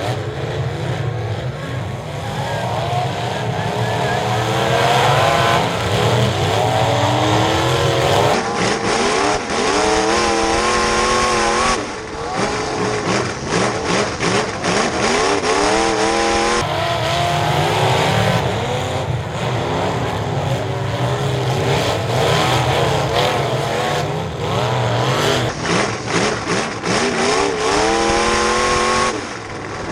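Several figure-8 race car engines running hard together, their pitch rising and falling as they accelerate and lift for the corners, with the sound jumping abruptly a few times.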